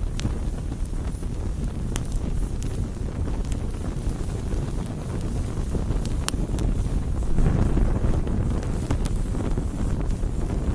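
Wood campfire burning: a steady low rumble with scattered sharp crackles and pops, the rumble swelling briefly about seven seconds in.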